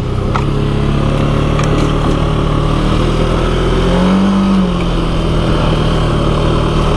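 ATV engine running as it rides along the trail, a steady drone with a brief rise and fall in revs about four seconds in.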